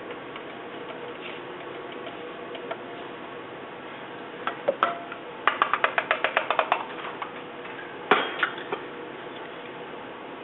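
A quick run of light taps, about eight a second, from kitchen utensils as a tablespoon of onion powder is measured out, followed by one sharper knock and a couple of softer ones.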